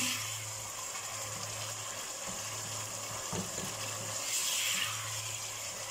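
Chicken curry masala sizzling in a pot as it is stirred with a silicone spatula, with a few soft knocks of the spatula against the pot near the middle, over a steady low hum.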